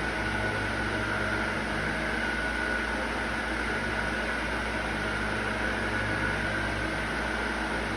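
Steady machine hum with a constant high whine and a low drone, unchanging throughout.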